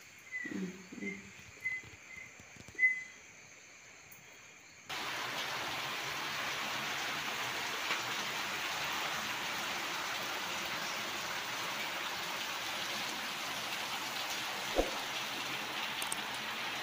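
A quiet stretch with a few faint, short high chirps and soft knocks. About five seconds in, steady rain hiss starts abruptly and holds.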